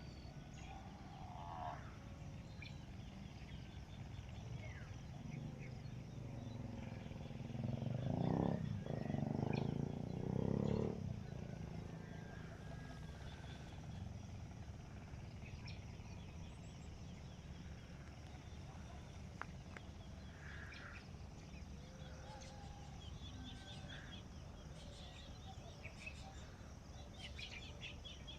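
Outdoor ambience: scattered short bird chirps over a steady low rumble. Near the middle, a louder, lower animal-like sound lasts about three seconds in three pulses.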